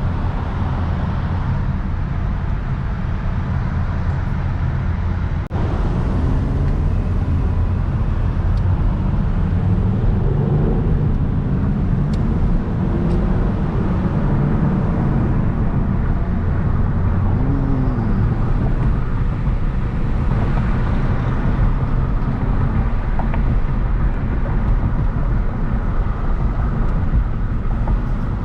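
Hyundai Genesis Coupe's 3.8-litre V6 running on the move with steady road noise, its engine note rising and falling a few times.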